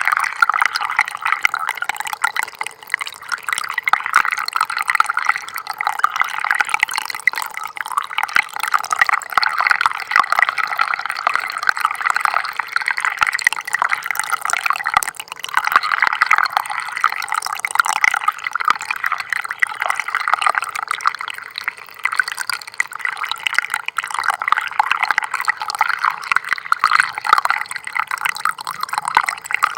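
A small stream of water trickling steadily: a continuous light splashing and gurgling made of many tiny drips and splashes, with no deep rumble.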